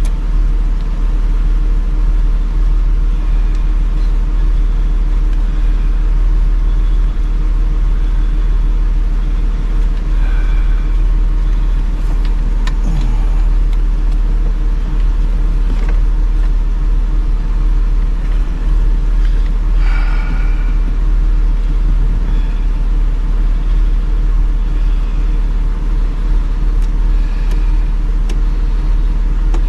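A steady low mechanical hum with a few steady tones in it, with faint clicks from parts being handled now and then.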